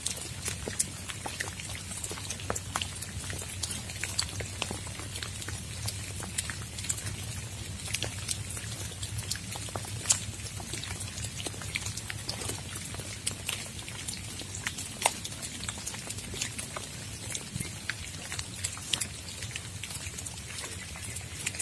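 Rain falling, with many irregular sharp drop ticks close by over a steady hiss and a low hum.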